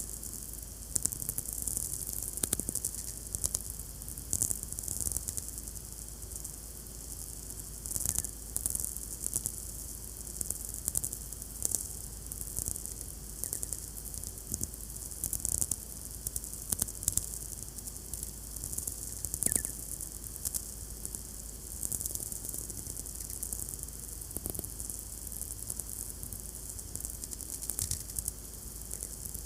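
VLF radio receiver output: sferics, the radio impulses of many distant lightning strikes, heard as dense irregular crackling and popping over a steady hiss.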